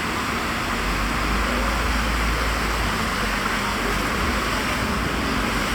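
Steady outdoor street ambience: a continuous hiss with a low rumble of traffic that comes in about a second in.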